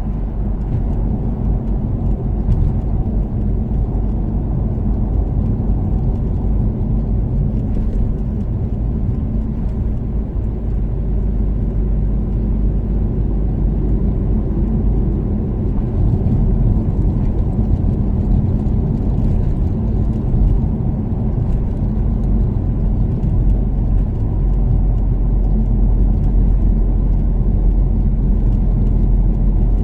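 Toyota Caldina's 3S-GTE turbocharged four-cylinder running at a steady expressway cruise, with tyre and road noise: a steady low rumble that grows a little louder about halfway through.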